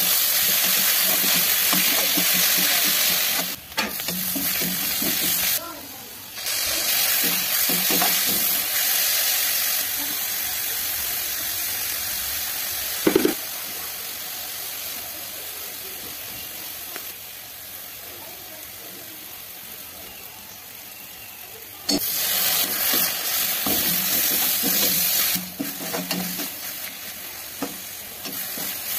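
Chopped onions sizzling in hot oil in a wok while being stirred with a spoon. The sizzle is loud at first, quieter through the middle and loud again near the end, cutting off abruptly a few times, with a single knock about thirteen seconds in.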